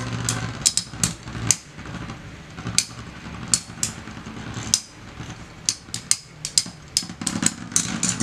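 Two metal Beyblade spinning tops, Basalt Horogium and Lightning L-Drago, whirring in the stadium and clashing again and again with sharp clicks, the hits coming faster near the end.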